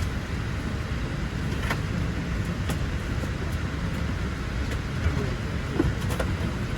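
Steady low rumble of an airliner cabin aboard a Boeing 787-8, with a few faint clicks.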